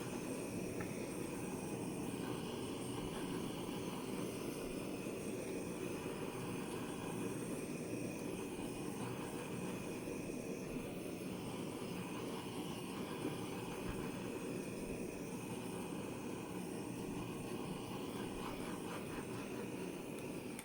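Hair dryer running steadily on a continuous blow, with a thin high whine over the rush of air; it cuts off at the very end.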